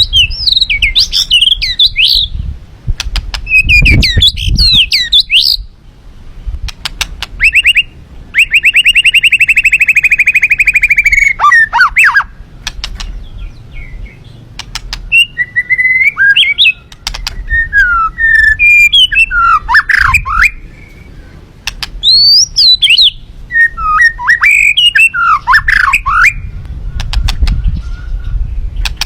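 Songbird singing loudly in short, varied whistled phrases, with a long rapid trill about eight to eleven seconds in. A low rumble lies under the first few seconds and near the end.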